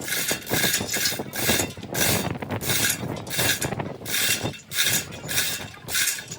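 A hand tool worked back and forth on metal in repeated harsh, rasping strokes, about two a second.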